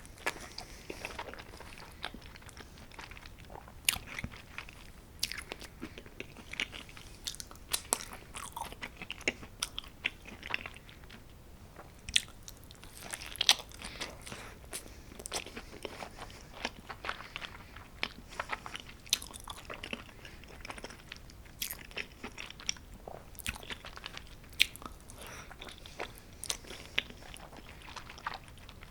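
Close-miked eating of homemade pizza: bites into crisp crust and steady chewing, with many irregular crunchy clicks.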